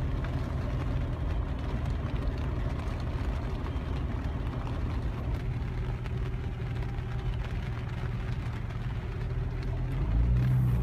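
Car engine running with a steady low rumble, growing louder near the end.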